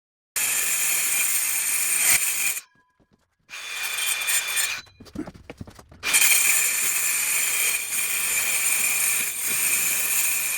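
Power tool cutting sheet stock for a boat's side sheets: a loud, steady, high-pitched cutting noise. It stops about two and a half seconds in, comes back unevenly, then runs steadily from about six seconds on.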